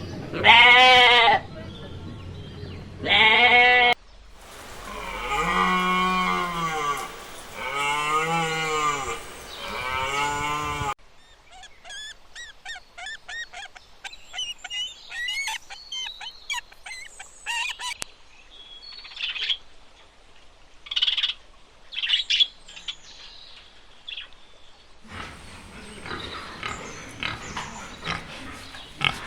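A run of farm animal calls: two loud, short bleats, then several drawn-out lowing moos from cattle, then many quick, high chirps and squeaks from small animals or birds, with a noisier, busier stretch near the end.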